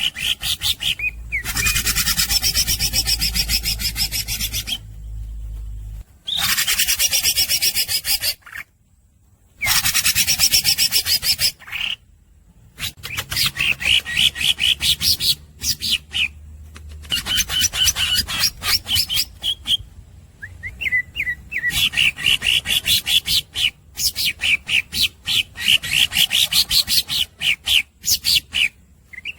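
Green leafbird (cucak ijo) singing fast and non-stop: long runs of rapid, rasping chatter and high trills, broken now and then by short, abrupt pauses.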